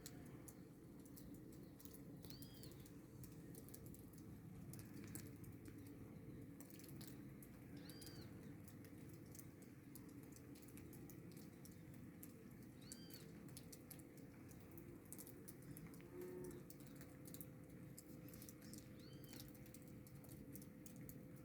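Faint outdoor ambience with a steady low rumble, and a bird giving a short high rising-and-falling chirp four times, about every five or six seconds.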